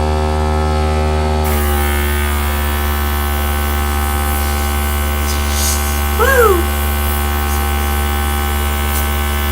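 Small airbrush compressor humming steadily. About a second and a half in, the air gun starts blowing, adding a steady hiss of air. A short voice-like sound rises and falls just past the middle.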